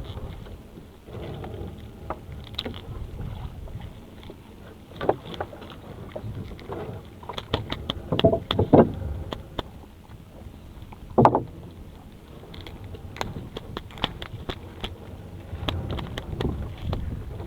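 Small fishing boat at sea: a low wash of water and wind with scattered knocks and clatter, the loudest a cluster of knocks about halfway through and a single sharp one a few seconds later.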